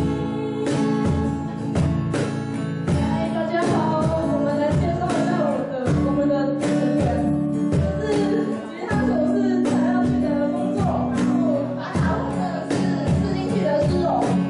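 A live band playing a pop ballad: a sung melody over guitar chords, with a drum kit keeping a steady beat.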